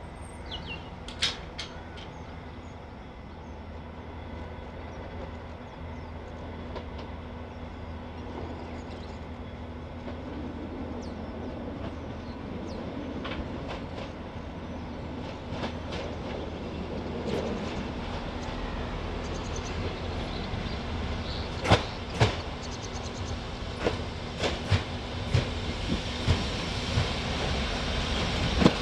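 A train running along the track, its rumble steadily growing louder as it approaches. From about two-thirds of the way in, sharp clicks of the wheels over rail joints come more and more often.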